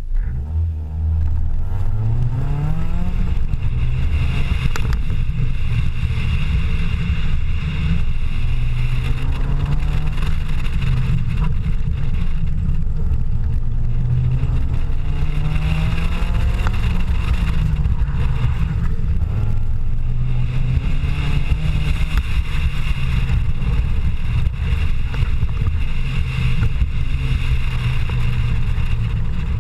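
Four-cylinder engine of a 1998 Honda Civic hatchback being driven, its pitch climbing under acceleration and dropping back again and again, over steady road and wind noise.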